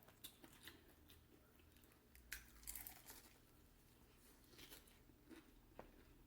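Faint crunching and chewing of crisp food close to the microphone: scattered short crunches, with a louder crackle about two and a half seconds in.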